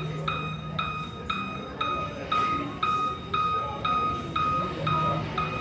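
Car warning chime beeping about twice a second, the same single-pitched note each time, each starting sharply and fading briefly.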